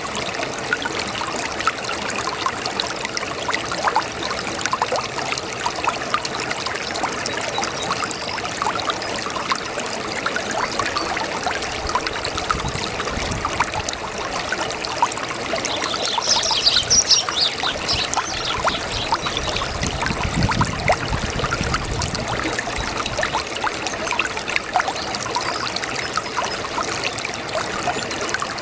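Small brook babbling and trickling, a steady wash of water with many small splashes. A brief higher-pitched flutter sounds a little past halfway.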